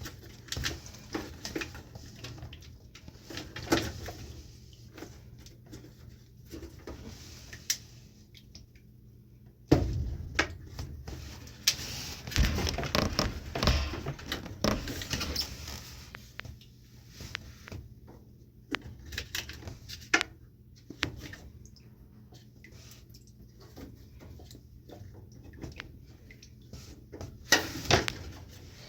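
Scattered clicks, knocks and rattles of hands handling the furnace's plastic condensate drain line and fittings, with a busier stretch of handling noise in the middle, over a faint steady low hum.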